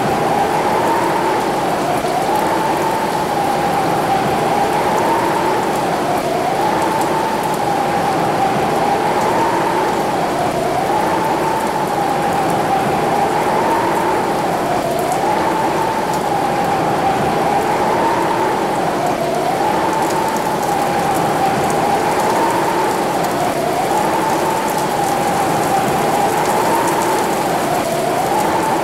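Heavy rain pouring down steadily. A tone runs through it, wavering up and down in pitch about every two seconds.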